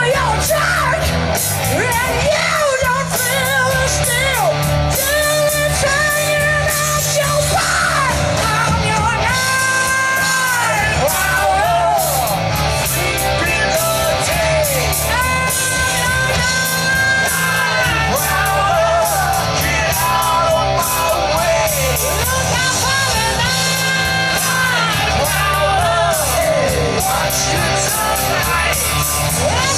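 Live rock band playing a slow blues-rock number: a lead line of bent, held notes over bass and drums.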